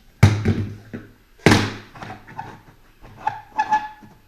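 Two hard thunks about a second apart, then a few lighter knocks and clicks, as the plastic pet door parts are handled and knocked against the door during fitting.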